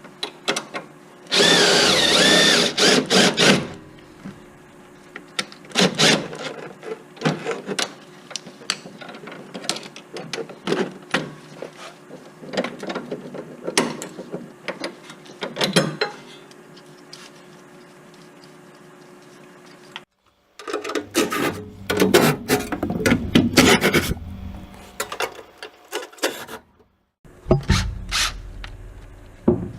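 A power tool runs for about two seconds, a second or so in, while bolts are worked loose on a car's rear suspension. After it come scattered clicks and clanks of hand tools on metal, with a louder stretch of clanking after a short break about two-thirds of the way through.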